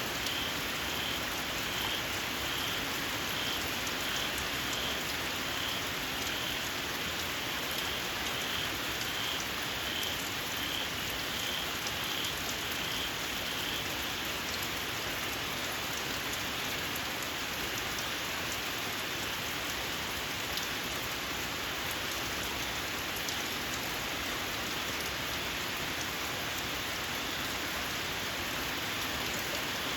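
Steady rain falling, with a small frog calling in short shrill notes, about one and a half a second, that stop about halfway through.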